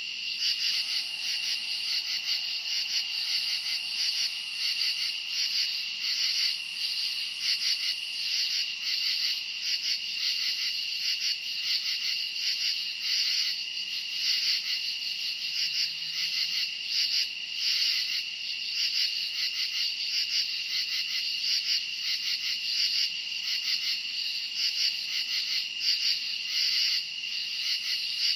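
Night chorus of crickets: a steady high trill under a dense layer of rapid, pulsing chirps.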